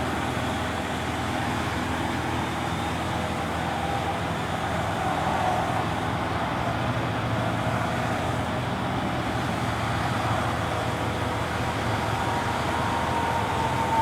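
Steady road-traffic noise with an engine running underneath it, even and unbroken.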